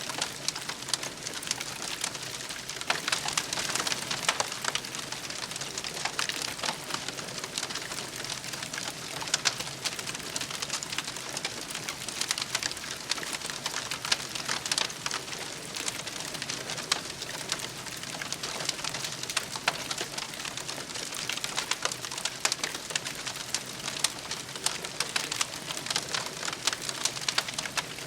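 Campfire of burning wood crackling steadily, with a dense stream of small pops and snaps.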